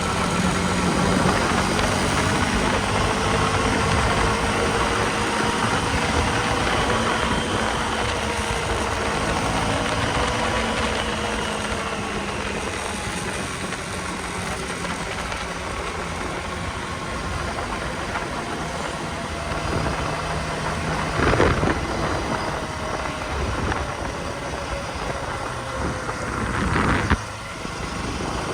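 KTM Duke 250's single-cylinder four-stroke engine running steadily as the bike is ridden, its pitch slowly rising and falling over a steady hiss. Two brief sharp sounds stand out, one about two-thirds through and one near the end.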